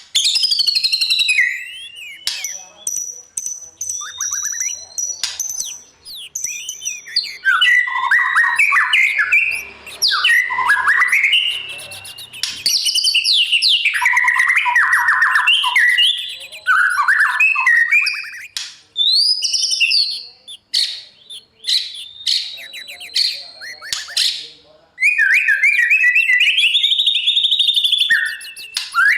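White-rumped shama singing a long, varied morning song. It is made of clear whistled notes and fast trills that rise and fall, delivered in loud phrases separated by brief pauses.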